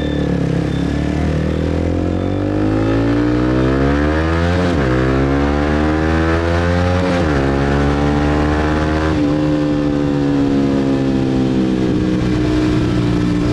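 Motorcycle engine pulling away and accelerating through the gears: its pitch climbs, drops sharply at a gear change about 4.5 s in and again about 7 s in, then settles to a steady cruise after about 9 s.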